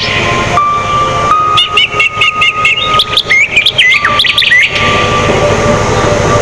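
Songbird singing quick chirps and whistled rising and falling notes, over a steady held tone and a background hiss.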